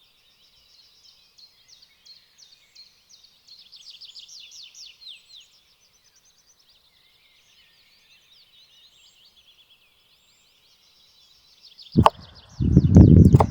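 Small birds singing in rapid high chirps, with a quick run of falling notes about four to five seconds in. Near the end a sharp knock, then a burst of loud low thuds.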